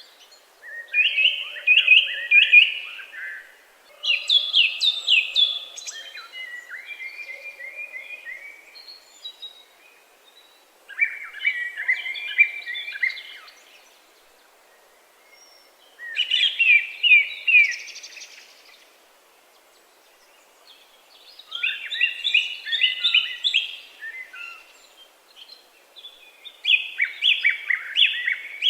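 A songbird singing a series of short phrases, each a rapid run of high, down-slurred notes lasting two to three seconds. The phrases repeat about every five seconds, with quiet gaps between them.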